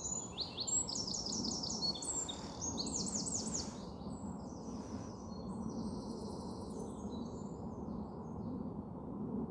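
Songbirds singing: quick runs of high, sweeping notes for the first four seconds, then fainter, thinner calls. A steady low rushing sound runs underneath.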